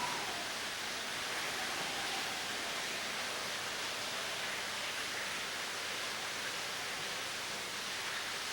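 Steady, even rushing noise with no distinct events; a faint tone slides gently down in pitch over the first couple of seconds.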